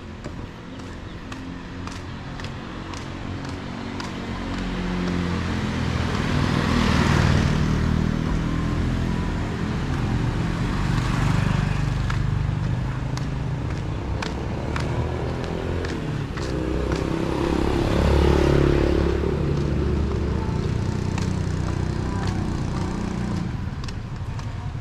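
Motor vehicles, motorcycles and cars, passing close by on a street. Their engines swell and fade, with the loudest passes about a quarter of the way in, near the middle, and about three-quarters through.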